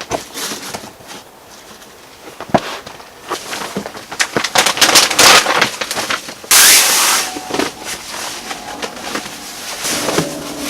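Campfire wood burning, crackling and popping with many sharp snaps, with a short loud hiss about six and a half seconds in.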